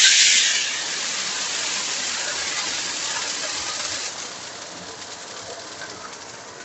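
Sliced, pre-boiled bamboo shoots sizzling in hot oil in a wok just after being tipped in. The sizzle is loud at first, drops within the first second, then goes on steadily and dies down further near the end.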